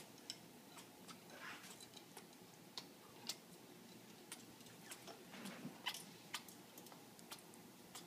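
African grey parrot making faint, irregularly spaced clicks, with a soft low sound from the bird in between, as part of its mating display.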